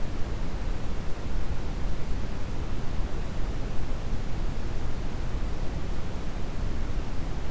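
Steady brown noise: an even, deep rushing hiss with most of its weight in the low end and no changes.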